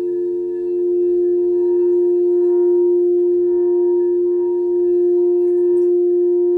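Singing bowl sounding a sustained, steady ringing tone with fainter overtones, swelling louder about a second in and then holding.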